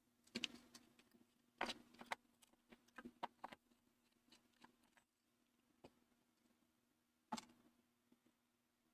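Scattered small clicks and light knocks of a screwdriver and screws being worked on a graphics card's metal bracket, over a faint steady hum.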